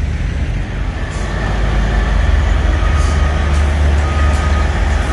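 Cummins ISX diesel engine of a Kenworth semi truck running with a deep, steady low rumble that swells a little about a second and a half in, with a faint high whistle above it.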